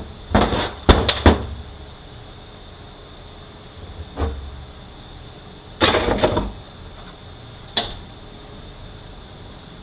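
Hard parts from a 4R75W automatic transmission being handled and set down on a workbench: short bursts of knocking and rattling, in a cluster in the first second or so, again around four and six seconds in, and a single knock near eight seconds, over a steady shop hum.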